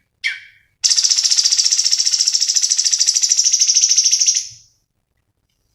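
Cucak cungkok song: a short downward chirp, then a long, rapid, high trill of about a dozen notes a second lasting some three and a half seconds, fading out at the end.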